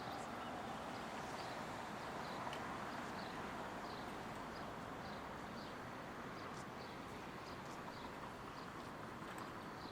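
Steady hum of city street ambience, with faint short ticks or chirps a couple of times a second.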